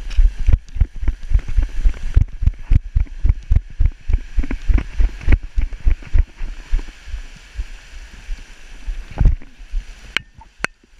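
Wind buffeting the microphone in irregular low rumbling gusts, heavy through the first half and easing later, with two sharp clicks near the end.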